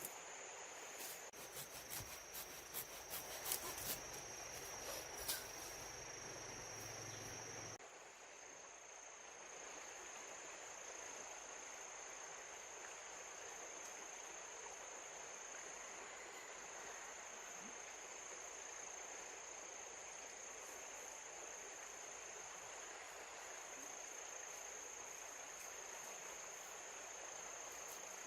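Insects, crickets or similar, trilling steadily as one continuous high, thin tone over a background hiss. Sharp clicks and knocks come over the first five seconds or so.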